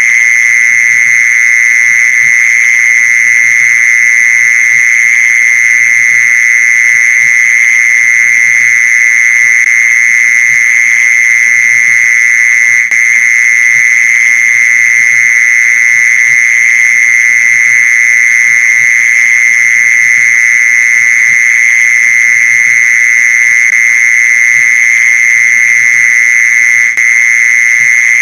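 Mole cricket calling: one unbroken, steady, high-pitched buzzing trill that keeps the same pitch and loudness throughout. It is the male's song, used here as a lure call.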